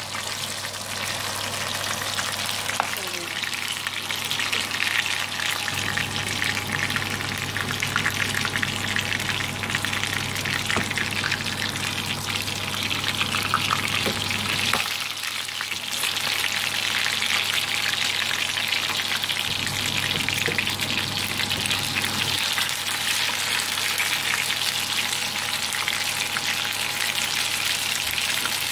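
Breaded white fish fillets sizzling and crackling in shallow hot oil in a frying pan, steady throughout, louder from about halfway through.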